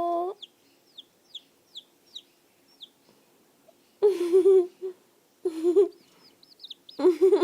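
Chicken calls: a run of short, high, falling peeps, then two longer, lower warbling calls a couple of seconds later, and a few more peeps near the end.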